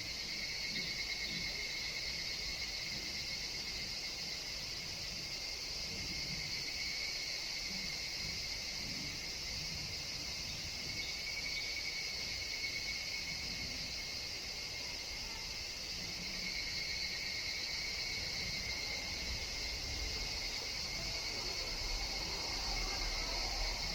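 Steady chorus of insects, including higurashi evening cicadas, with a second, higher-pitched call that swells and fades every few seconds.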